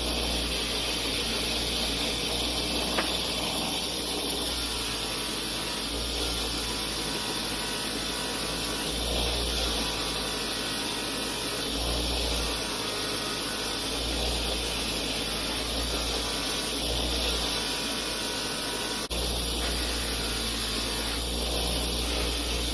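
Old bench grinder running with a buffing wheel, a small part held against the wheel and buffed with rouge compound: a steady motor hum under a continuous hiss, the low hum swelling and easing every second or two.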